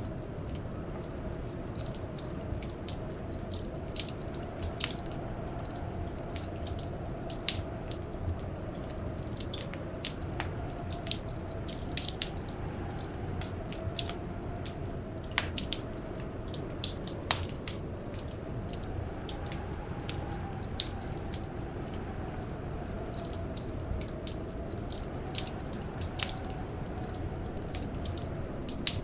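Wood fire crackling in a fireplace: irregular sharp pops and snaps, a few louder than the rest, over a steady rush. Under it runs a faint whistle that slowly rises and falls, like blizzard wind.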